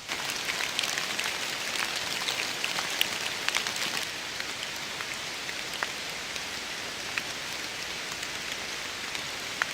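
Rain falling steadily, with many individual drops striking sharply on top of the hiss. The drop hits are densest in the first few seconds, then the rain settles to an even fall.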